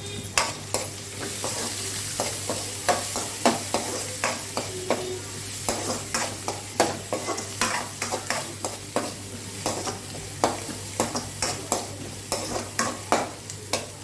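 Onions frying in a kadai with a steady sizzle, stirred with a spatula that clicks and scrapes against the pan a few times a second.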